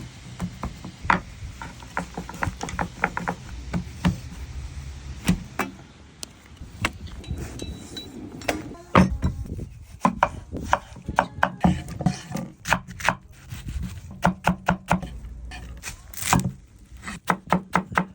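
Knife chopping on a wooden board, sharp knocks coming in irregular runs of quick strokes with short pauses between.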